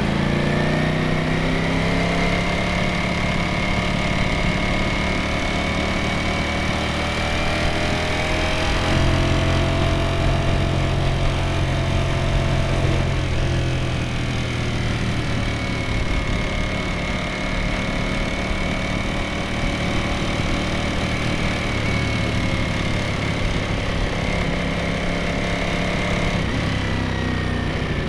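Ducati Streetfighter V4S V4 engine and exhaust under way at a fairly steady engine speed, the pitch drifting gently up and down as the throttle is eased on and off.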